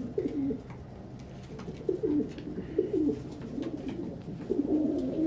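Several domestic pigeons in a loft cooing, their low, bending calls overlapping without a break.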